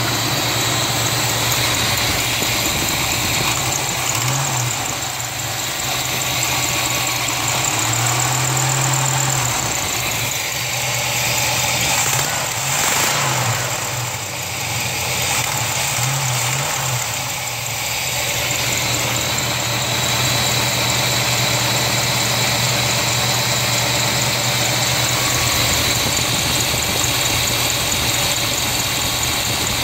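Engine running on a freshly rebuilt Edelbrock Quadrajet four-barrel carburetor, settling into a steady idle. In the first half it is revved briefly a few times, the engine note rising and falling back; the throttle is worked by hand at the carburetor linkage.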